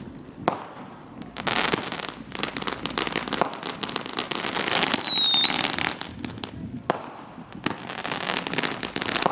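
Fireworks going off: a few sharp bangs and long runs of dense crackling, with a short high falling whistle about five seconds in.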